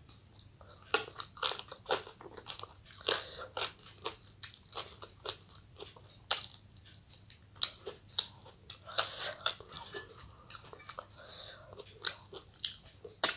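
A person eating close to the microphone: chewing and biting, with many short, irregular mouth clicks and crunches.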